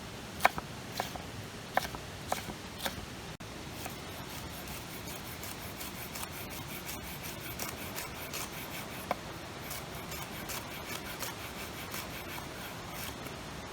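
Campfire cooking sounds: a few sharp clicks or knocks, then a steady hiss with faint crackles, like a pan of shakshuka cooking over the fire.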